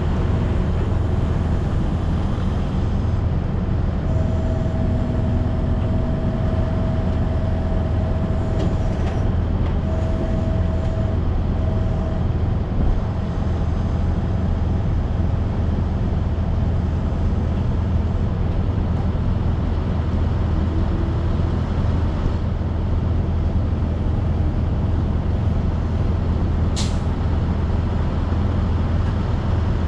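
Semi-truck's diesel engine and road noise, a steady low drone while driving down the highway. A faint whine comes and goes in the first half, and there is one short high click near the end.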